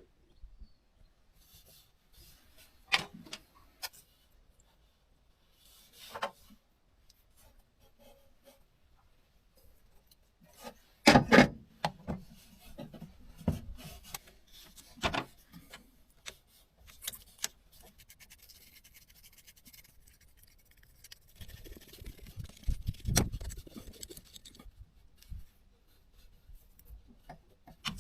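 Hand work on battery terminals: scattered clicks, taps and rubbing of small tools and metal parts, with a louder pair of knocks about eleven seconds in.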